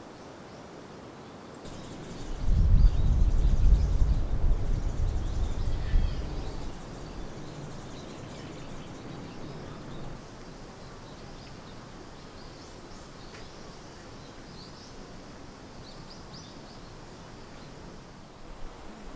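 Outdoor ambience with a low rumble of wind buffeting the microphone for about four seconds, starting about two seconds in, then faint bird chirps.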